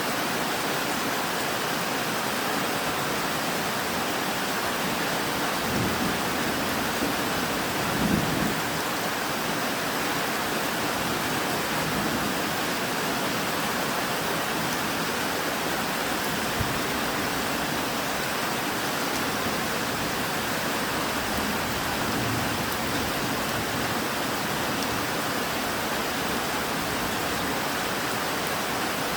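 Steady, heavy rain hissing evenly, with a couple of brief low thumps about six and eight seconds in.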